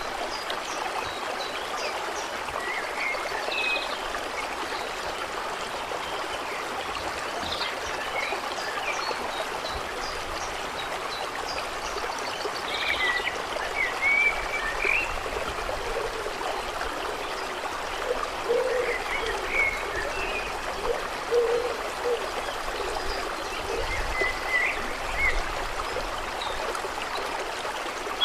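Steady trickling, running water of a lake ambience, with scattered short bird chirps and a few short low calls in the middle.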